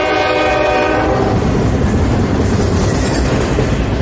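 A CSX freight locomotive's horn sounding a chord of several steady tones, which cuts off about a second in. The loud, steady noise of the train moving past on the rails goes on after it.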